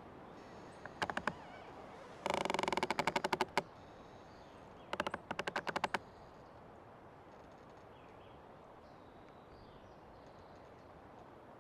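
Old tree creaking: a short creak about a second in, a longer creak made of rapid ratcheting clicks from about two seconds, and a third near five seconds. Faint bird chirps sound in the quieter stretch after.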